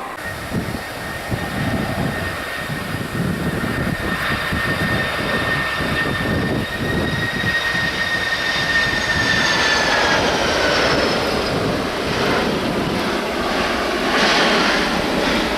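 Jet airliner passing close: a high engine whine over a broad rumble, the whine gliding down in pitch about ten seconds in as the aircraft goes by.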